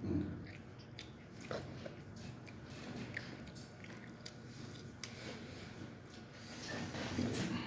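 Close-up eating sounds: biting into and chewing chicken, with small crackles and clicks throughout and louder bites at the start and near the end.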